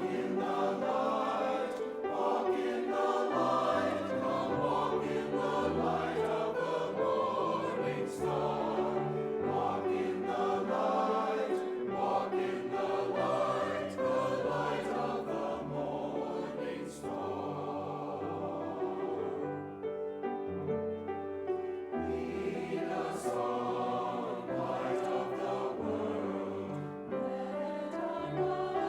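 A church choir singing a Christmas song in sustained chords, with a brief softer passage about two-thirds of the way through.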